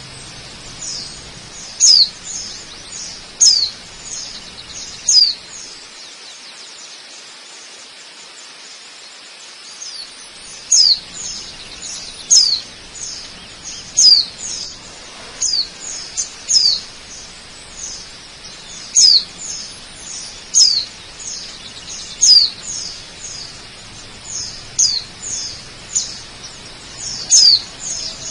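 A bird giving short, high chirps that sweep downward, repeated about once a second with a pause of a few seconds near the start, over a faint steady rush of waterfall water.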